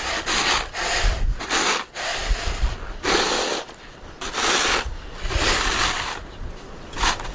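A broom sweeping snow in repeated swishing strokes, roughly one a second, with wind buffeting the microphone.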